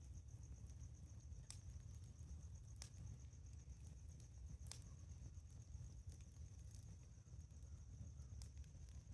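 Faint campfire crackling: a handful of sharp, isolated pops over a low rumble, with insects chirping steadily in a high, evenly pulsing trill.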